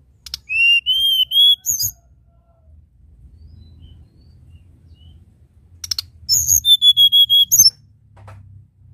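Hill blue flycatcher singing two short phrases of clear, sweet whistled notes, each starting with a few quick sharp notes; the phrases come about four seconds apart, the second one with long, level notes.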